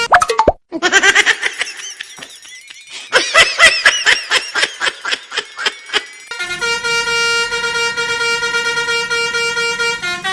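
A multi-tone telolet bus horn playing a tune of held notes over the second half, after a quick falling whistle and a rapid run of warbling chirps.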